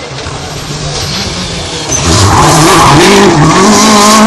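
Rally car engine growing much louder about two seconds in, its pitch dipping and rising as it takes a hairpin, then holding a steady high note under hard acceleration, with tyre noise.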